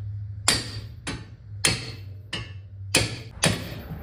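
Hammer blows driving a ball joint separator to force a suspension ball joint out of its steering knuckle: about six sharp metal strikes, roughly two a second, each ringing briefly.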